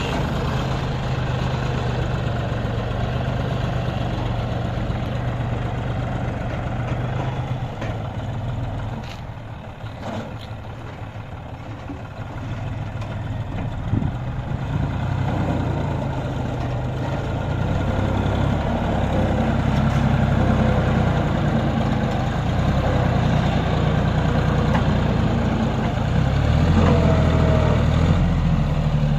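Heavy diesel engine running steadily. It drops in level about a third of the way in, then grows louder again and runs harder through the second half.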